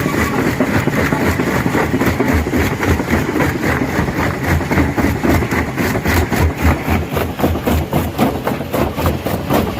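Stone crusher running under load, breaking rock: a continuous heavy mechanical drone with rapid, fairly regular knocks and cracks, several a second, which grow more distinct in the second half.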